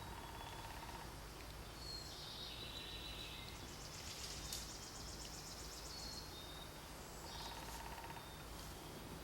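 Several small birds singing and chirping, with a fast high trill about four seconds in, over a steady low background rumble.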